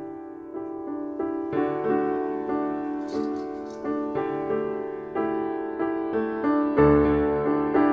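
Background music: a piano playing a steady run of notes, with deeper bass notes joining about seven seconds in.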